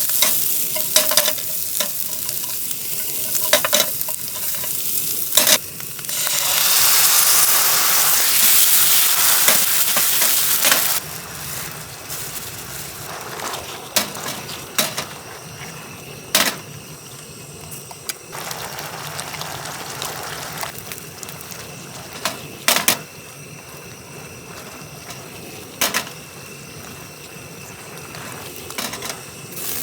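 Food frying in a pan, with a steady sizzle and sharp clicks of a utensil against the pan. The sizzle swells much louder from about six to eleven seconds in, then settles back to a quieter sizzle.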